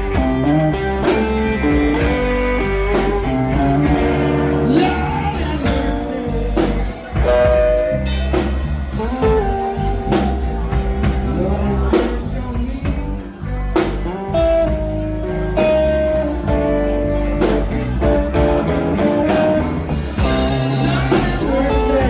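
Live blues band playing, with electric guitar lines over a steady bass and drum beat.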